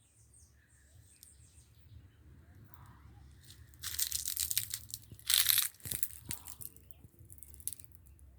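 Crackling, crunching noises with two loud bursts, the first about four seconds in and the second just over five seconds in.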